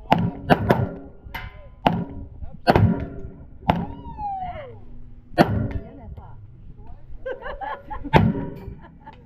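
Gunfire on a shooting range: about nine sharp shots at irregular spacing, several close together in the first three seconds, the loudest about five and a half and eight seconds in.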